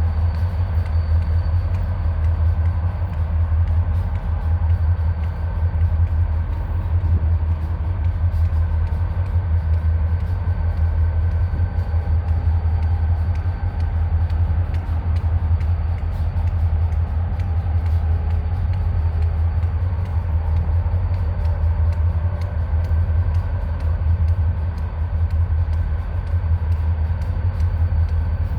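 Stopped diesel locomotive idling with a deep, even rumble that holds steady throughout, a few faint steady whining tones above it.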